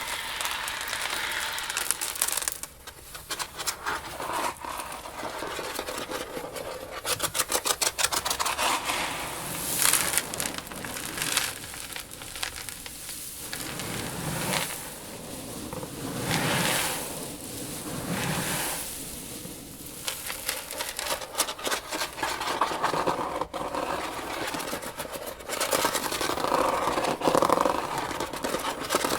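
Loose dry seeds rustling and crackling as they are stirred and shifted in a tank, in waves, with a quick run of fine ticks about seven seconds in.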